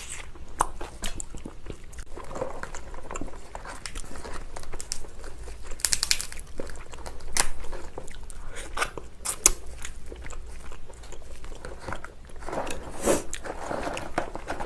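Close-up eating of lobster: biting, chewing and crunching, with scattered sharp clicks and crackles, the busiest about six seconds in and again near the end.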